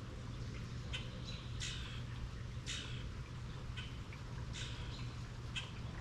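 A songbird giving short, sharp chirps, repeated roughly once a second, over a steady low hum.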